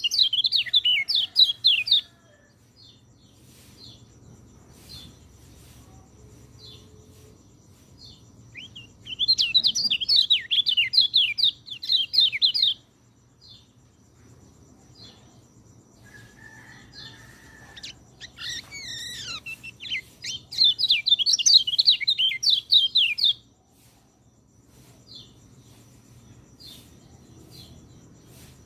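Peleci (orange-headed thrush) singing: three bouts of a few seconds each of rapid, high warbling notes, with faint short chirps in the pauses between them.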